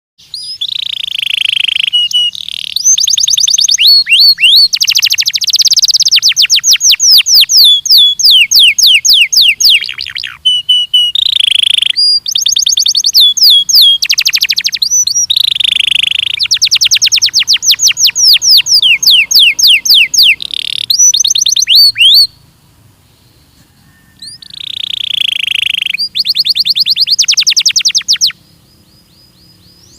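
Belgian canary singing long, fast trills of rapidly repeated falling notes, interspersed with short whistled phrases. The song breaks off briefly twice, about two-thirds of the way in and near the end.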